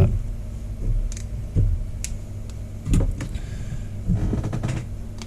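Soldering iron tip cartridges being pulled from their packaging and handled: a few sharp plastic and metal clicks and knocks, with scratchy rustling twice in the second half, over a steady low hum.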